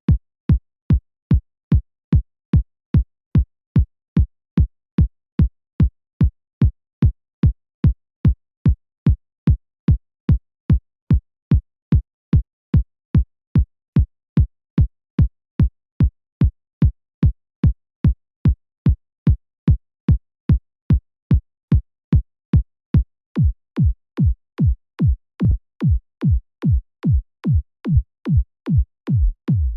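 A synthesized electronic kick drum looping on a steady beat, about two hits a second. Each hit starts with a sharp click and falls quickly in pitch to a low thump. From a little past two-thirds of the way through, the hits ring on longer in the low end.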